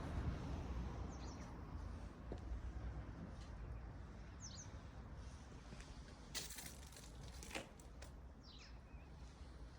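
Faint outdoor ambience: a steady low rumble with three short, high bird chirps spread across it, and two sharp clicks near the middle.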